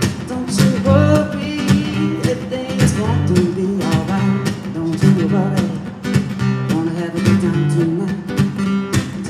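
Live acoustic guitar strumming in a steady rhythm, with a voice carrying a melody line without clear words.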